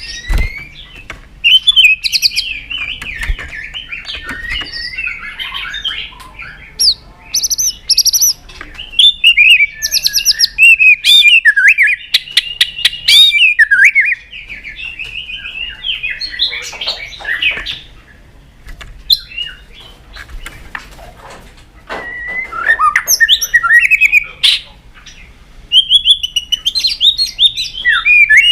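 White-rumped shama singing in bursts of fast, varied whistled phrases, mixed with sharp clicking 'tak' calls, with short quieter pauses between bursts.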